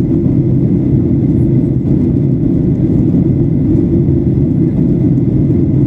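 Steady low rumble of a Boeing 737-800's engines and airframe heard from inside the passenger cabin, even and unbroken.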